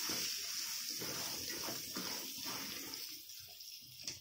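Potato and pointed-gourd pieces frying in hot mustard oil, a steady sizzle, with a spatula stirring and scraping them around the kadhai for the first three seconds. Then the stirring stops and the sizzle grows quieter, and a short knock comes just before the end.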